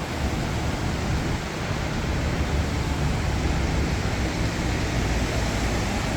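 Steady jet airliner noise: an even roar with a deep rumble underneath.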